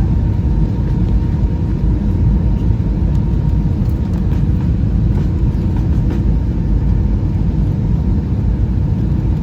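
Steady low cabin rumble of an Airbus A320-216 from a window seat: engine and airflow noise with a faint steady whine. A few light clicks come around the middle.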